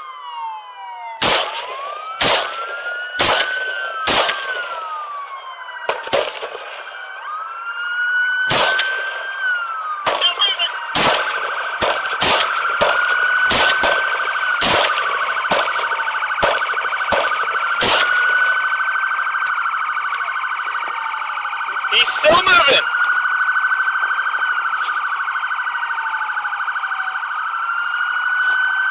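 Several police car sirens wailing at once, overlapping rising and falling tones, with repeated sharp cracks about once a second in stretches and a louder burst about 22 seconds in.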